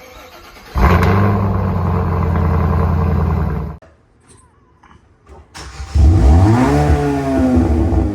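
Kia K5 exhaust with the muffler deleted: the engine sound comes in suddenly about a second in and holds a steady note, then cuts off. After a short quiet gap the engine revs, its pitch rising and then falling back.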